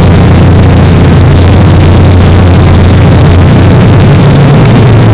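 Loud, steady engine running at a constant speed, a deep unchanging hum under dense noise.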